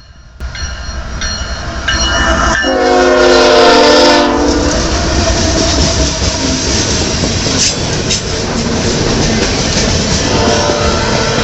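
Canadian National freight train passing close. Its locomotive's chord air horn sounds several notes at once, growing and loudest for about two seconds before cutting off. Then comes the steady rumble of the locomotives and cars rolling past.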